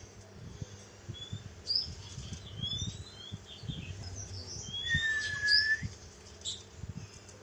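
A pet songbird chirping and whistling in short rising notes, with one longer whistle about five seconds in, over scattered soft low thumps.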